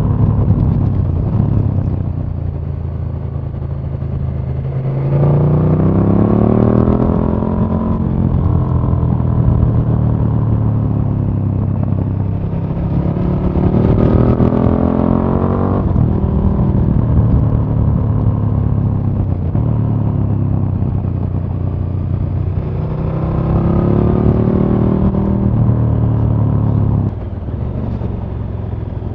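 2017 KTM 1290 Super Duke R's big V-twin engine heard from an onboard microphone, accelerating three times with the revs climbing, running steadier between pulls. Near the end the throttle is shut and the sound drops.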